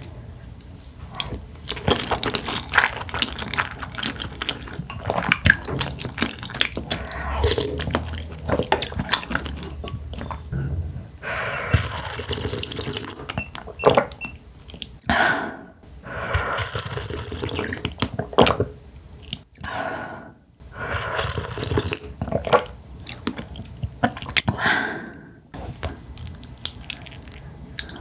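Close-miked eating sounds: wet chewing and slurping with many small clicks, broken by a few short pauses.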